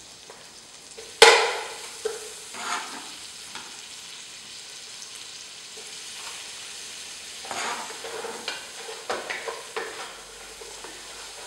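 Chopped tomatoes sizzling in hot oil with garlic and onion in a stainless steel pot, stirred with a spoon. There is one sharp knock about a second in, and a run of quick scraping stirring strokes in the second half.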